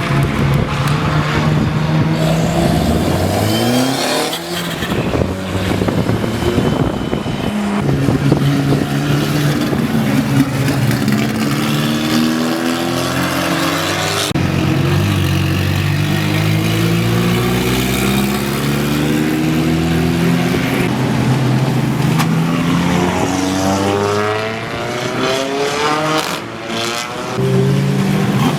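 A car engine accelerating hard on a racetrack, its pitch climbing again and again and dropping back sharply at each upshift, with a dip in level near the end.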